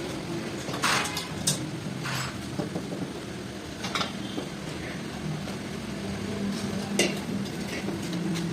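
Metal parts and tools clinking and scraping now and then, about five times, the sharpest near the end, over a steady low hum.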